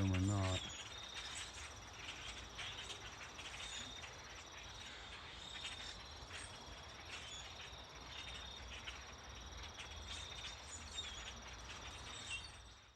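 Evening chorus of crickets and other insects trilling steadily, two high trills overlapping; the higher one stops about five seconds in. Faint short chirps are scattered through it.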